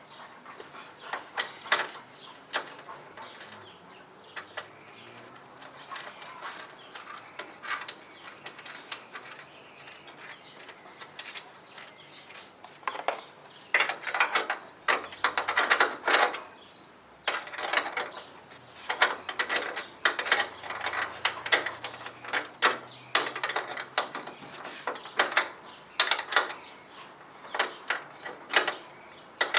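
Metal clicking and rattling of hand tools and hardware in irregular bunches of rapid clicks, thickest in the second half, as the new hood strut ball-stud mounts are screwed into place.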